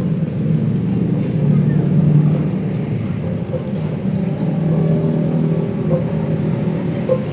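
Steady road traffic: vehicle engines running with a continuous low rumble.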